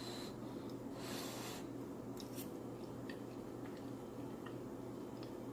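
Quiet eating sounds: soft chewing and a few faint light clicks, with a brief soft rustle about a second in, over a steady low room hum.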